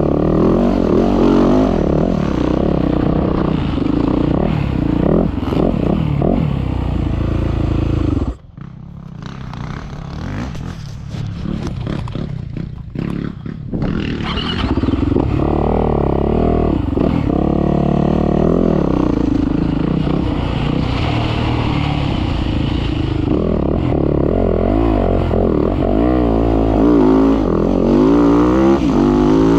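Motocross dirt bike engine revving up and down hard, rising and falling in pitch. About eight seconds in the engine sound drops off suddenly, leaving a few seconds of quieter clattering and scraping, then it revs hard again from about fourteen seconds on.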